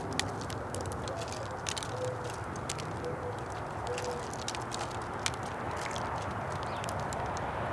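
Mourning dove cooing, a rising first note and then three soft low coos about a second apart. Frequent sharp clicks and taps from birds feeding run over a steady background hiss.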